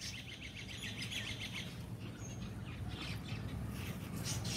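Small birds chirping in rapid series of short high notes, strongest in the first second and a half and again near the end, over a low steady background hum.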